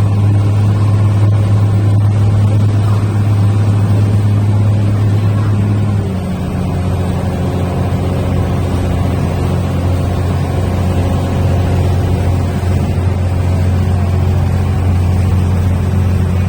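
Ferry boat's engine running steadily during a river crossing; its note drops a little about six seconds in as the throttle eases.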